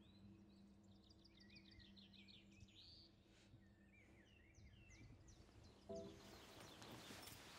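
Faint birdsong in a quiet room: scattered chirps and a quick trill of repeated notes. About six seconds in, a soft rustling haze and a low held musical note come in.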